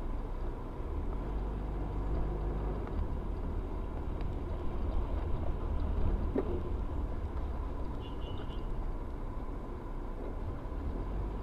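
Car on the move: a steady low rumble of engine and road noise with a faint steady whine above it, starting abruptly.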